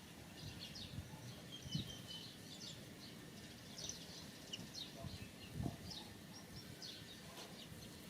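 Faint, scattered outdoor bird chirps, short and high-pitched, with a couple of soft low thumps.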